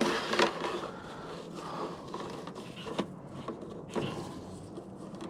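Plastic HiveGate entrance pieces being handled and pushed into a slotted wooden board: soft scraping with a few light clicks and knocks.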